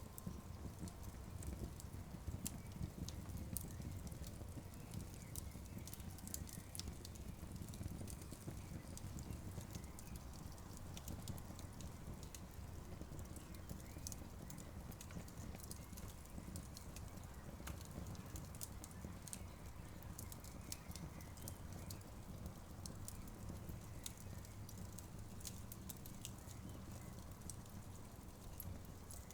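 Wood campfire crackling, with frequent small irregular pops and snaps over a low steady rumble.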